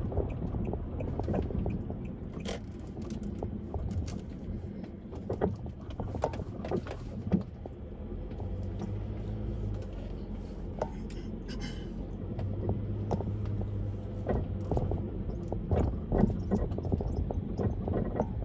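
Car driving: steady low road and engine rumble with frequent small clicks and rattles.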